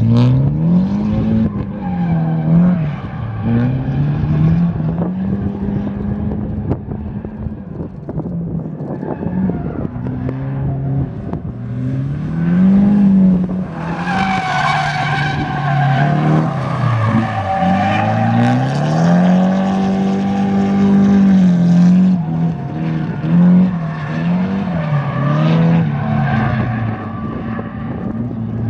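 Drift car's engine revving up and down over and over as it slides, with tyres squealing; loudest a little past halfway.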